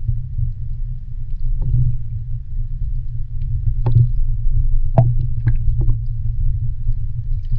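Seawater surging and sloshing by the shore, heard as a loud, deep, steady rumble with a few sharp knocks and clicks scattered through it.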